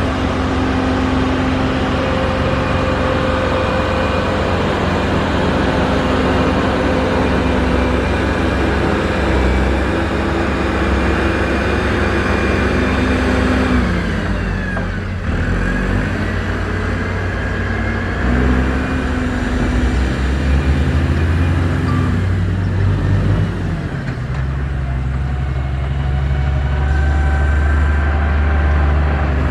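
Heavy diesel engine of a construction machine running under load, with a deep rumble. Its pitch falls about halfway through and climbs back a few seconds later.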